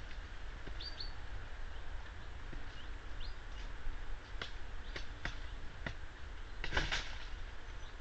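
Short high bird chirps, a few in the first half, then several sharp, spaced knocks, with a louder cluster of knocks shortly before the end.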